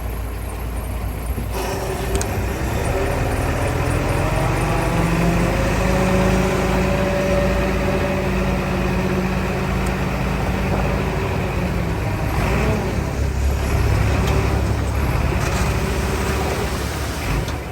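Heavy diesel earthmoving machinery working under load. The engine note rises a couple of seconds in and holds high for several seconds, changes about twelve seconds in, and eases near the end.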